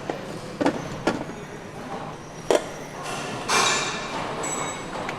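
Assembly-line machinery noise: several sharp metallic knocks in the first few seconds, then a louder rushing hiss from about three and a half seconds in, over a steady factory hum.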